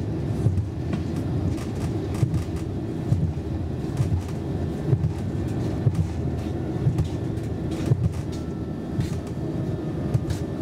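Roslagsbanan X10p narrow-gauge electric commuter train running at speed, heard from inside the carriage: a steady low rumble with frequent short knocks and rattles.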